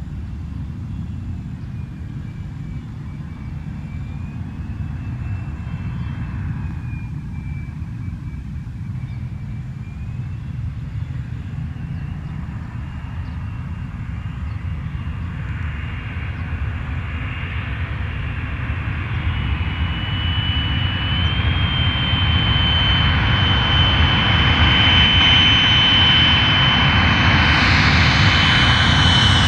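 Aircraft on approach to land: steady engine rumble with a high whine, growing gradually louder as it comes nearer, loudest near the end.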